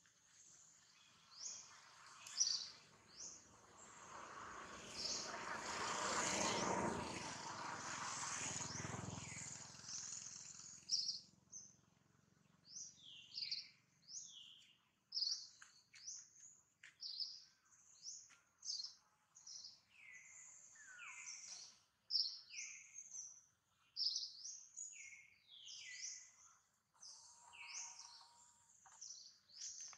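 Birds chirping repeatedly: short, high calls that fall in pitch, coming one or two a second through the second half. Over the first ten seconds a broad rush of noise swells and fades beneath them.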